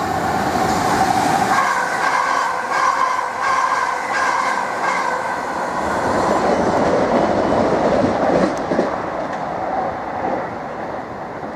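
South West Trains Class 455 electric multiple unit running past close by, its wheels clattering over rail joints about twice a second, with a steady high whine over the rumble of the train. The rumble swells in the second half and fades toward the end.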